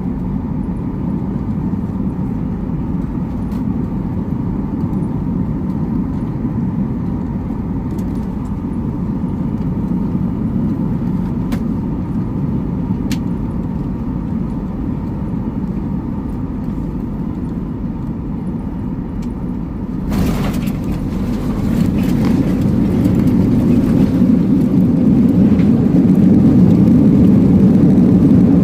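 Steady low vehicle rumble heard from inside the vehicle, with a few faint ticks. It grows louder about twenty seconds in as the vehicle's engines or motion build up.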